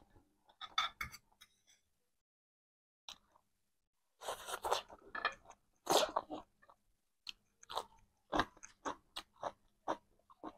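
Close-miked eating sounds: crisp crunching bites and chewing of food, coming in irregular bursts, with a run of short separate crunches through the second half.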